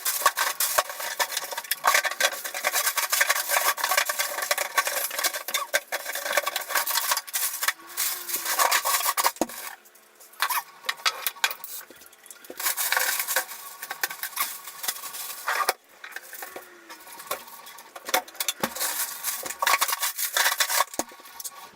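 Dishes and cutlery clattering and scraping while being handled, in an irregular run of knocks and clinks with brief lulls about halfway through.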